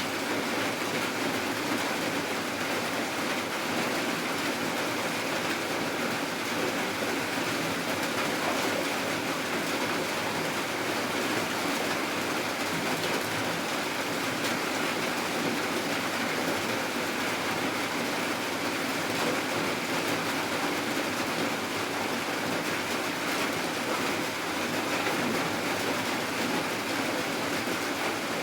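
Steady heavy rain falling, a constant even hiss without breaks.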